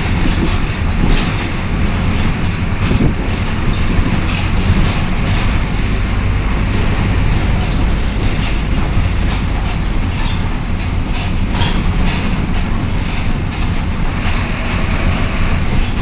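Onboard sound of a Mercedes-Benz OF-1721 Bluetec 5 bus under way: the diesel engine and road noise make a loud, steady low drone, with frequent short rattles and clicks from the body.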